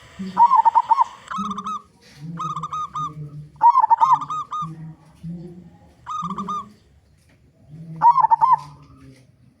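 Local zebra dove (perkutut) singing loudly: about six phrases of quick, clipped cooing notes, with deeper drawn-out coos between them.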